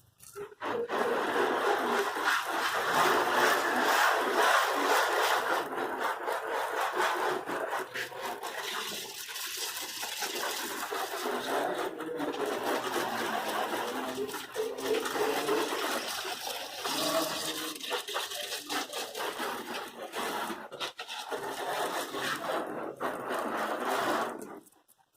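Water spraying onto a car in a steady hiss, starting just after the beginning and cutting off abruptly near the end.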